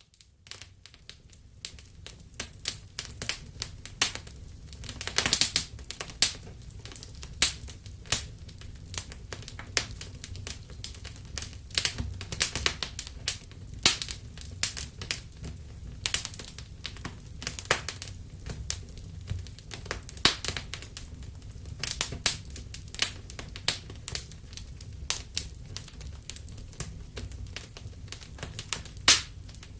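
Wood fire crackling in a fireplace: irregular sharp pops and snaps, some loud, over a steady low rumble of the burning fire.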